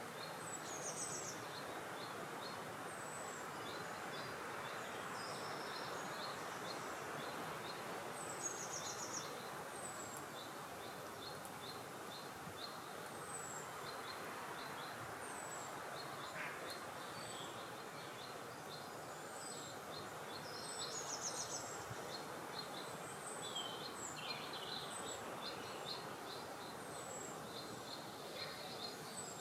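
Small birds chirping and singing over steady wind noise, with short high notes repeated again and again and a few brief trills.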